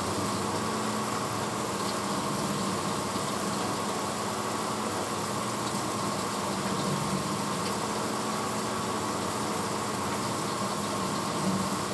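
1986 Hotpoint Potwasher dishwasher running mid-cycle: a steady hum with a constant rushing noise, even throughout.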